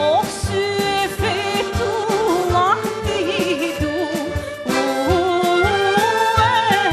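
Albanian Shkodran folk song performed live: an ornamented vocal melody with wide vibrato over a band with a steady drum beat.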